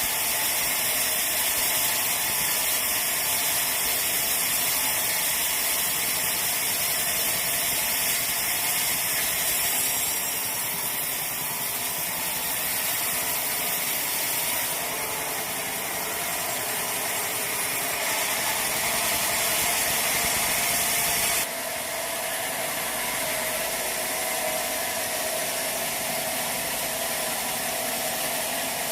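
Bandsaw sawmill running steadily with a hissing, rushing mechanical noise. The sound drops and changes abruptly about three-quarters of the way through.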